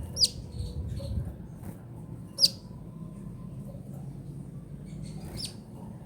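Sunbird ("kolibri ninja") giving three sharp, high chirps, each sweeping quickly downward, spaced two to three seconds apart, over a low steady hum.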